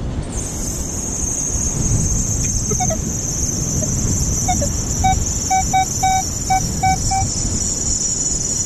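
Metal detector giving a string of short, same-pitched target beeps as the coil sweeps over a buried coin, mostly in the second half. Heavy wind buffets the microphone, and a steady high-pitched hiss runs under it all.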